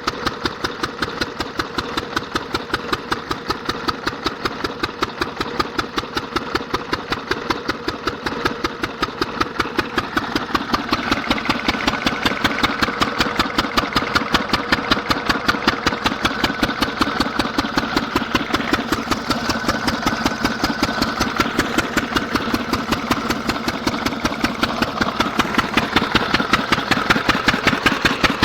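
Diesel oil engine running steadily with an even, rapid exhaust beat, getting a little louder about ten seconds in.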